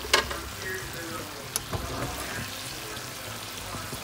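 Shredded cabbage, green beans and ground meat sizzling in a nonstick wok, a steady frying hiss. Two short sharp knocks come just after the start and about a second and a half in.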